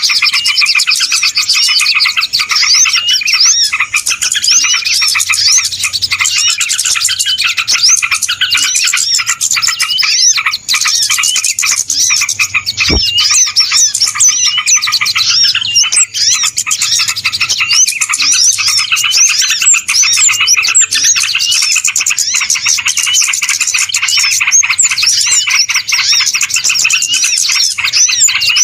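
Dense, unbroken chatter of many small birds chirping and trilling over one another: a noisy bird-lure recording played to draw small birds in. A single sharp click about halfway through.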